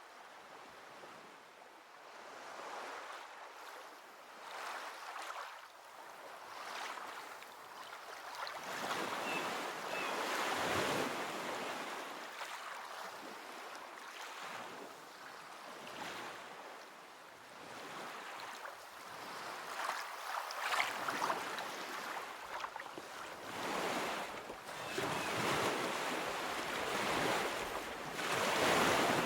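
Ocean waves breaking on a beach, surf rising and falling in repeated swells every few seconds, the loudest breaks near the middle and the end.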